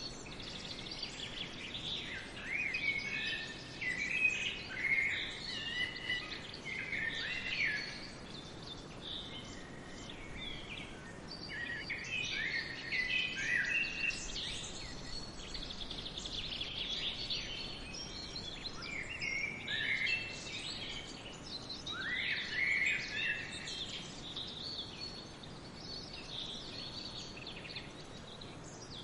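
Several songbirds chirping and trilling in short overlapping phrases, over a faint steady hiss of forest ambience.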